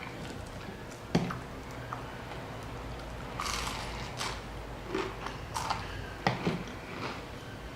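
Close-miked eating sounds: moist chewing and squishing of food, with scattered small crackles and a few sharp clicks or knocks, the loudest a little after a second in and again about six seconds in.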